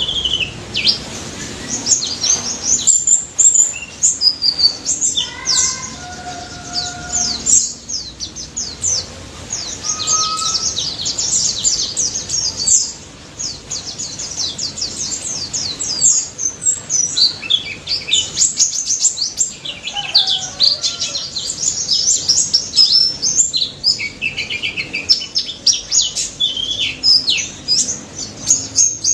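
Pleci (white-eye) singing a fast, unbroken run of high, thin chirps and twitters. A few lower, clearer whistled notes stand out about 5 to 8 seconds in, and again near 10 and 20 seconds.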